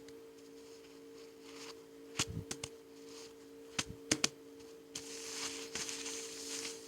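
Handling noises: a few sharp clicks and taps in two clusters, then about two seconds of rustling, over a faint steady two-tone hum.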